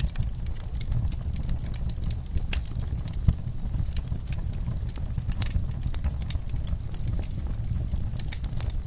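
Fire burning in a fireplace, crackling irregularly over a steady low rumble, with one sharper pop a little over three seconds in.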